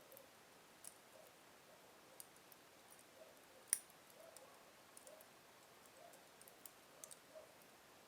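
Logs burning slowly in a fireplace, giving faint scattered crackles with one louder pop a little under four seconds in.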